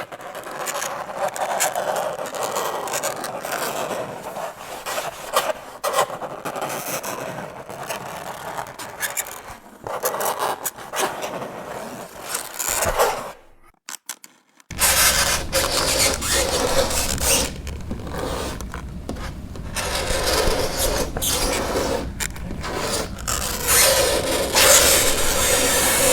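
Fingernails scraping across a chalkboard in repeated scratchy strokes. The scraping cuts out for about a second midway, then resumes louder with a low rumble underneath.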